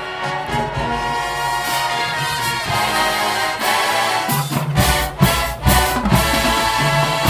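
High school marching band playing: brass sustaining chords over deep bass notes, with several loud percussion hits around the middle.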